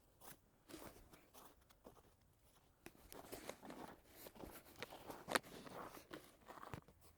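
Footsteps crunching in snow, spaced out at first and then denser and louder, with one sharp click about five seconds in.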